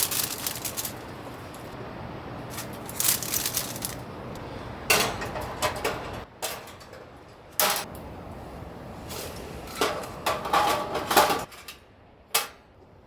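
Clinks and rattles of camp kitchenware being handled, in irregular bursts over a steady background hiss that drops away near the end.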